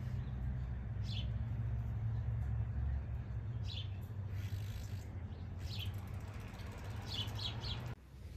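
Small birds chirping: short high chirps every second or two, with three in quick succession near the end. Under them runs a steady low hum.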